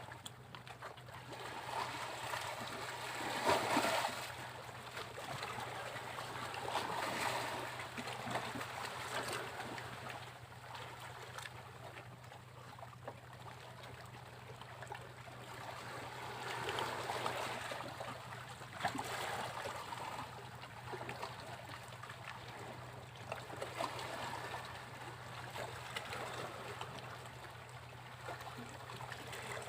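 Sea waves breaking and washing up a beach, the surf noise swelling and falling away every few seconds, the loudest break about four seconds in.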